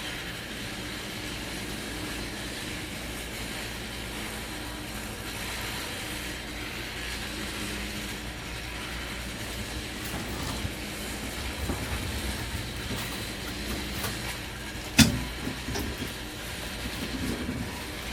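Backhoe loader's diesel engine running steadily, with one sharp knock about fifteen seconds in.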